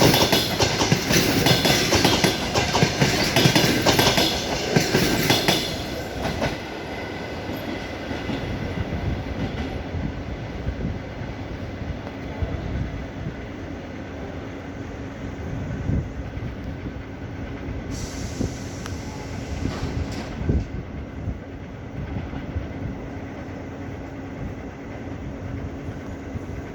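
Passenger train's coaches rolling past, the wheels clacking over the rail joints. The sound is loud for the first six seconds or so, then drops to a lower, steadier rumble as the train moves away.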